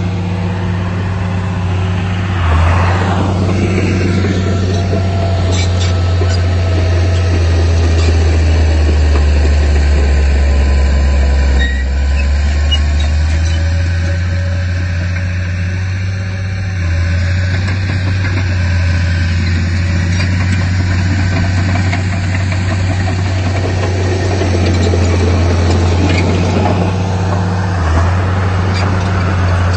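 Heavy diesel engine of earthmoving machinery running steadily with a loud low drone. The engine note shifts briefly about three seconds in and again near the end.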